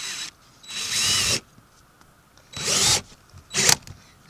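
Power drill driving screws through a skylight's plastic flange in four short bursts, its motor whine rising and falling with each trigger pull. One screw is driven too far and cracks the plastic a little.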